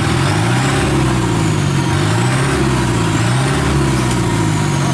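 Heavy farm-machinery diesel engine working under load, its pitch rising and falling every second or so as it labours.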